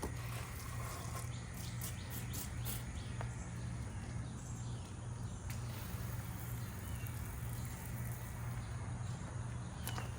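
Birds and insects chirping faintly over a steady low machine hum.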